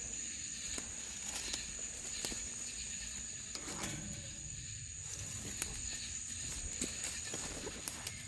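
Insects, likely crickets, trilling in one steady high-pitched tone, with scattered faint clicks and rustles and a low rumble underneath.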